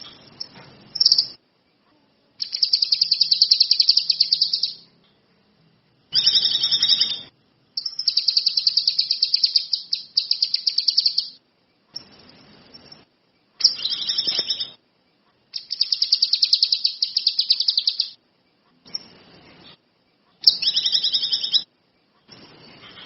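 Kinoi songbird singing in bouts of rapid, high-pitched trills, each lasting about one to three seconds, broken by short silent gaps.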